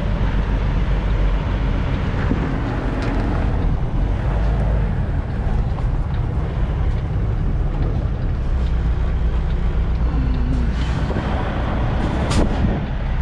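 Semi truck's diesel engine running steadily under a low-speed turning manoeuvre, a deep even rumble, with a sharp click about twelve seconds in.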